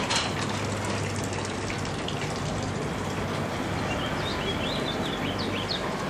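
Steady outdoor street noise, an even hiss, with a small bird chirping a quick run of short notes about four seconds in.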